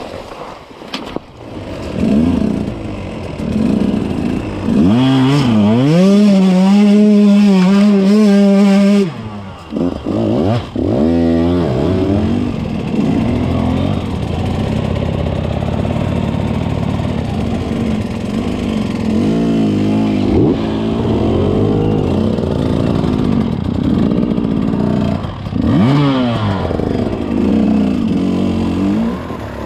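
Enduro dirt bike engine revving. It climbs about five seconds in, holds high revs for a few seconds, then drops and carries on at lower revs with repeated blips of the throttle.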